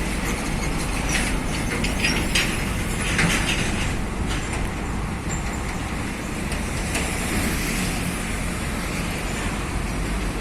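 Heavy truck passing on the road with steady engine rumble and tyre noise, with a few short rattling clatters from its body or load about one to four seconds in.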